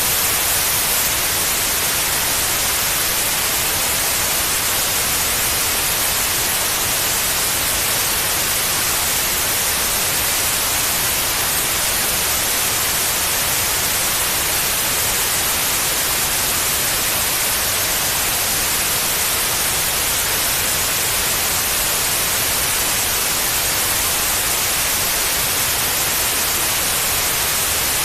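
Steady white noise: an even, unchanging hiss with most of its energy in the high range, played continuously as a sleep aid for babies.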